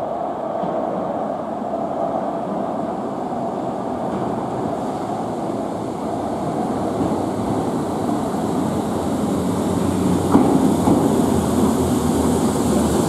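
A Merseyrail electric multiple unit runs in along the platform out of a tunnel. Its rumble grows steadily louder as it approaches, with one sharp knock about ten seconds in.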